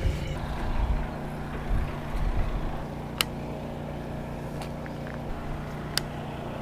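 Strong wind buffeting the microphone in irregular low gusts over a steady low hum, with two sharp clicks about three and six seconds in.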